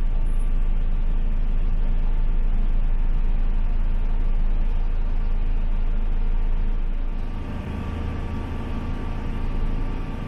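Diesel local train running along the track: a steady rumble and hum with a fast, even ticking in the high end. About seven seconds in, the sound drops and the ticking stops.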